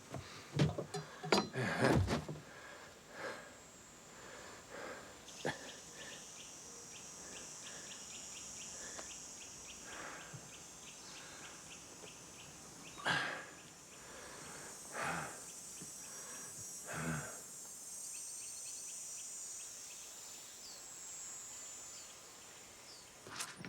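Steady high-pitched insect chorus, like crickets trilling, with a cluster of sharp knocks in the first two seconds and three short, softer sounds spaced about two seconds apart around the middle.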